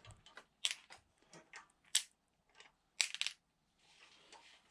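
Scattered sharp clicks and short scrapes of metal engine parts and hand tools being handled during an engine teardown, with a louder cluster of clicks about three seconds in.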